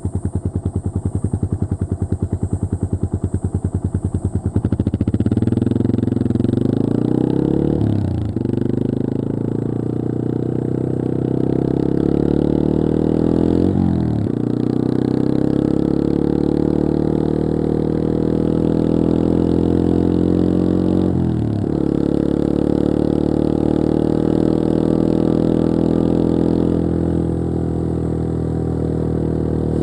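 Yamaha XT225 Serow's air-cooled single-cylinder four-stroke engine, heard from on board. It runs slowly with distinct firing pulses, then opens up about four or five seconds in and pulls through the gears. The pitch drops at three upshifts and climbs again after each.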